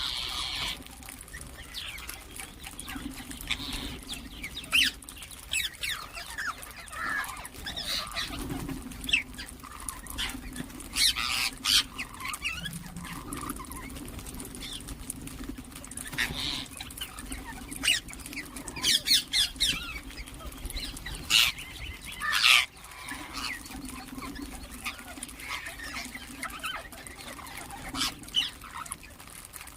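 Ringneck parakeets giving short, shrill calls and chirps in scattered bunches, over a steady low hum.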